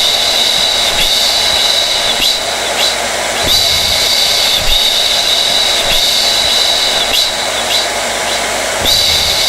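Hair dryer running steadily: a constant rush of blown air with a high motor whine over it.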